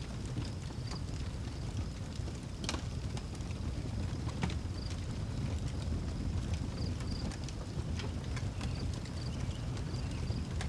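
Outdoor wood fire burning with a steady low roar and scattered sharp crackles and pops, the loudest about a third of the way in. Crickets chirp in short repeated pulses behind it.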